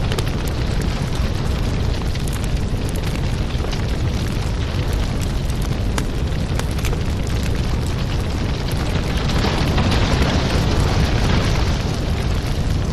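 Fireplace sound: a wood fire burning with a steady low rumble and frequent small crackles and pops, a little louder about ten seconds in.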